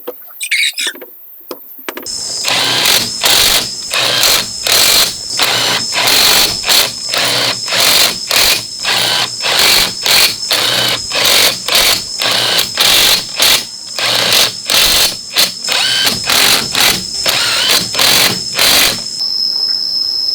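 A power tool triggered in short bursts, about two a second, each a loud whirring rush over a steady high whine. Near the end the bursts stop and only the high whine goes on.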